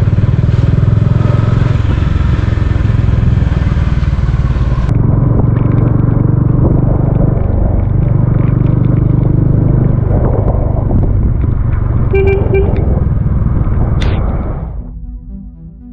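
Bajaj Dominar 400's single-cylinder engine running steadily as the motorcycle rides along, with road and wind noise; a short beep sounds about twelve seconds in, and the engine fades out near the end.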